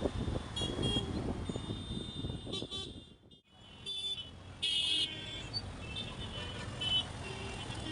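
Vehicle horns honking several times in road traffic, over the wind and engine noise of a motorcycle ride. The sound drops out briefly about three seconds in, and the loudest horn blast comes just before the five-second mark.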